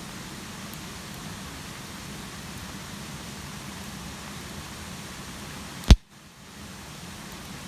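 Steady hiss of rain falling, with a few faint ticks. About six seconds in comes one loud, sharp click, and the sound drops out for about half a second before the rain resumes.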